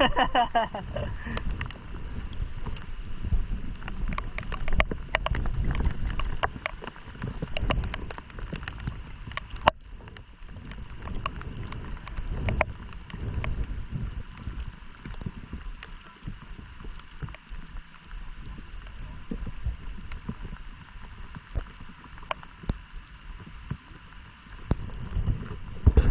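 Wind buffeting the microphone in a low, uneven rumble, with scattered sharp clicks and knocks, most of them in the first half.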